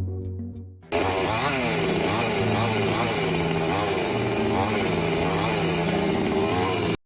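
Small two-stroke engine running loud, its revs rising and falling over and over. It starts suddenly about a second in, as music fades out, and cuts off abruptly at the end.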